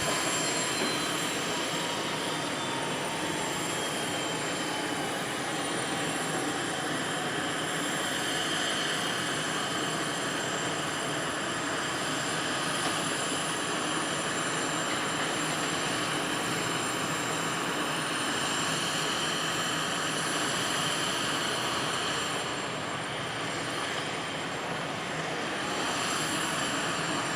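Turboprop military transport aircraft engines running at a distance: a steady rushing drone, with a thin whine that falls in pitch over the first several seconds.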